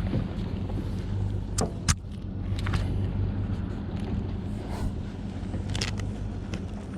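Engine running at a steady low idle, with a few sharp knocks or clicks over it.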